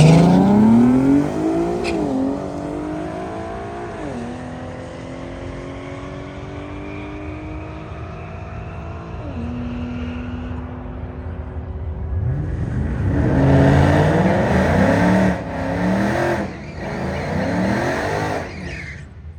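A car engine revving at full throttle as it launches down a drag strip, climbing in pitch and dropping at upshifts about 2, 4 and 9 seconds in as it pulls away. About 12 seconds in, an engine accelerates hard again, louder, with quick upshifts, and cuts off just before the end.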